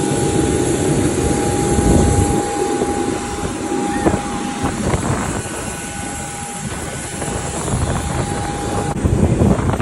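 Airliner engines running on the airport ramp: a loud steady rush with a steady whine held over it, the whine dropping out near the end.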